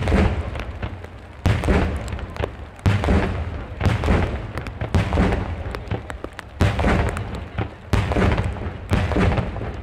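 Aerial fireworks shells bursting in a fast sequence of about eight booms, roughly one every second or so. Each boom fades away with a trailing rumble.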